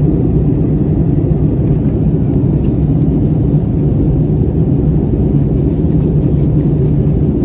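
Steady low rumble of engine and airflow noise inside an Airbus A321's passenger cabin.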